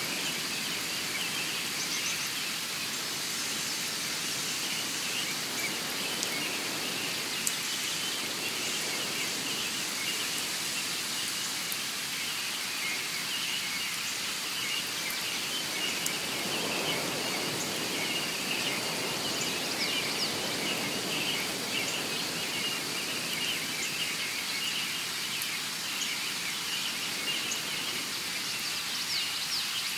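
Nature soundscape: a steady rain-like hiss under a dense, continuous layer of high, rapid bird chirping.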